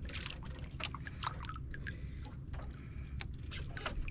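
Small fishing boat at sea: a steady low rumble, with scattered short splashes and ticks of water slapping against the hull.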